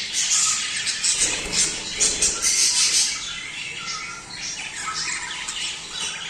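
Many budgerigars chattering, chirping and squawking together, busier and louder in the first half.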